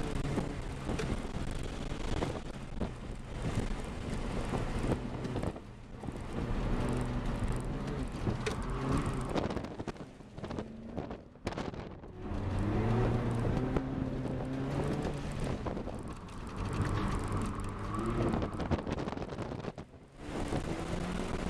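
Chevrolet Cobalt SS engine heard from inside the cabin on race tires through an autocross course, its pitch rising and falling repeatedly as the driver accelerates and lifts, with strong wind buffeting the microphone. The sound drops briefly about halfway through and again near the end.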